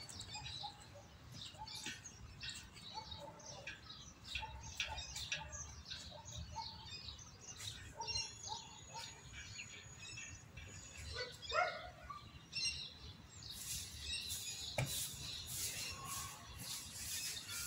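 Birds chirping and calling in short, scattered notes, with a couple of rising whistled calls, and one sharp knock near the end.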